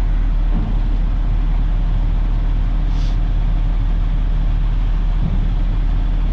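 Peterbilt dump truck's diesel engine idling steadily while the hydraulic dump bed lowers, with a brief faint hiss about three seconds in.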